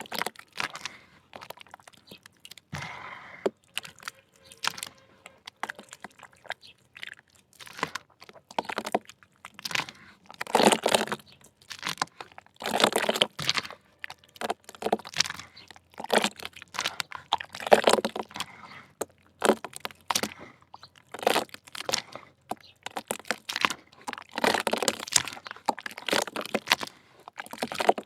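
Soft 'choco mud' dirt crunching and crackling as it is crumbled, in repeated bouts of about a second with short gaps between them.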